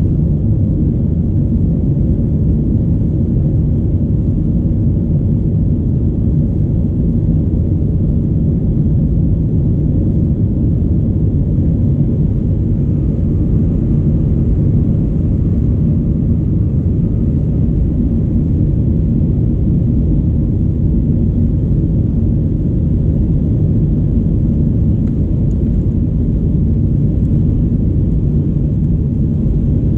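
Steady, low rumble of an Airbus A319's CFM56 engines and airflow heard inside the passenger cabin, even and unchanging throughout.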